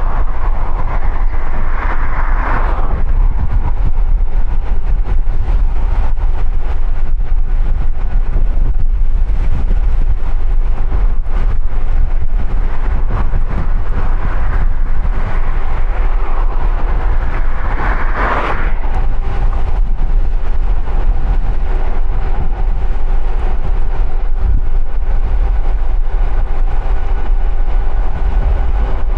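Strong wind rumbling on the microphone of a bike-mounted action camera while riding along a highway into a powerful headwind, with traffic noise throughout. Two vehicles pass louder, one near the start and one about eighteen seconds in.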